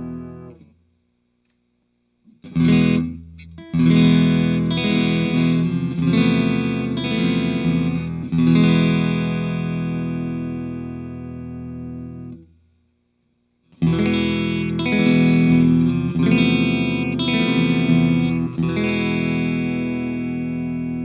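Patrick James Eggle Oz T acoustic guitar played in strummed chords. A ringing chord fades out, then after a short silence comes a run of strummed chords that is left to ring and die away, and about two-thirds of the way through a second run of strumming begins.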